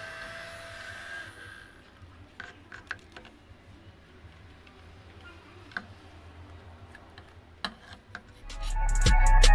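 Small electric motor of a homemade water-bottle vacuum cleaner whining steadily, then cutting off about a second in. A few faint clicks follow, and music with a beat fades in near the end.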